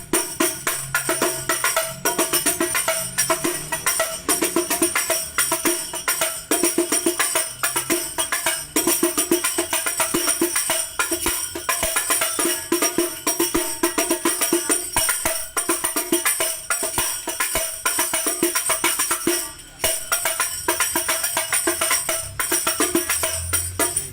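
A 32 cm mahogany-wood hadroh frame drum played in a fast, steady rhythm of strikes, with a bright jingling shimmer over the drum tones. There is one brief break in the pattern near the end.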